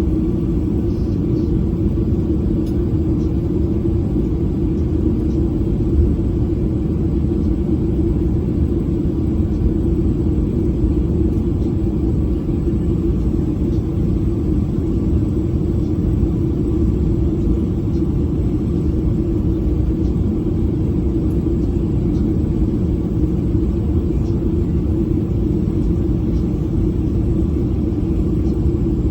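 Steady low rumble of engine and airflow noise heard inside a Boeing 737 passenger cabin, unchanging throughout.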